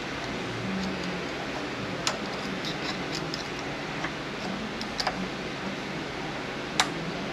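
Hand tools and transmission parts clicking and tapping during disassembly of a GM 8L90 automatic transmission: a sharp click about two seconds in, a quick pair about five seconds in and the loudest near the end, with light ticking in between. A steady background hiss runs underneath.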